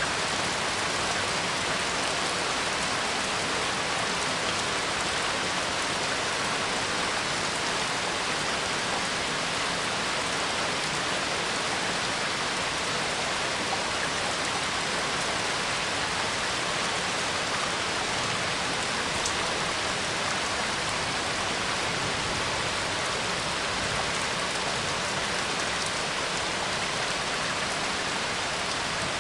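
Steady rainfall, an even hiss of rain falling on a surface that does not change in strength.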